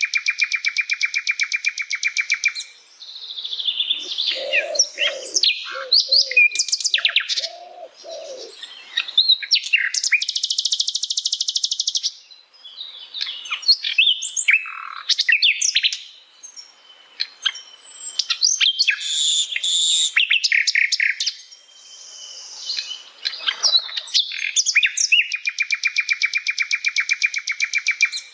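Sikatan londo flycatcher singing: long, fast, buzzy trills, about three of them spaced through the song, with varied sharp chirps and whistles between.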